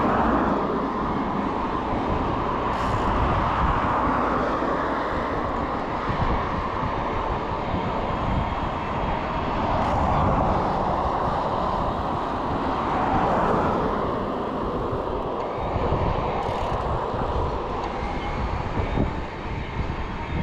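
Steady rushing of wind and road noise while riding an e-bike on a road, swelling and fading several times.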